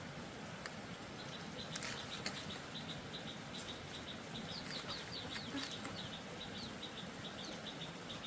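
Small bird chirping, a fast run of short, evenly repeated chirps with a few higher sliding notes mixed in, over a steady background hiss.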